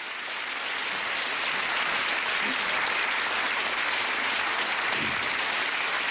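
Studio audience applauding steadily, the clapping swelling up in the first second and then holding.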